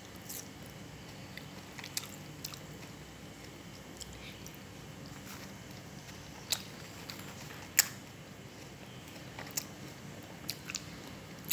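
A person quietly chewing ripe jackfruit flesh, with a few short sharp clicks scattered through, the loudest about two-thirds of the way in.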